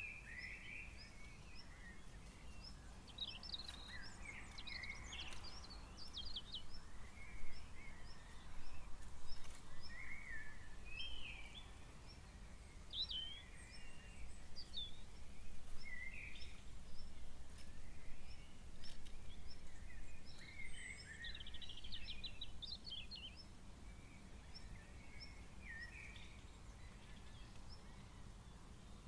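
Several birds calling at night in short chirps, whistled glides and quick trills, scattered and overlapping, over a steady low rumble. A faint, regular high ticking repeats a few times a second near the start.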